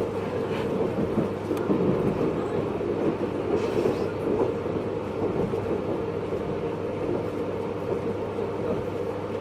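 JR East 583 series electric train heard from inside its motor car while running: a steady rumble of wheels on rail with a continuous hum.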